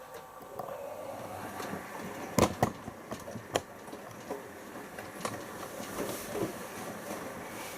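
Siemens iQ front-loading washing machine in its first rinse: the drum turns the wet load, with water sloshing and a few sharp knocks as the load tumbles.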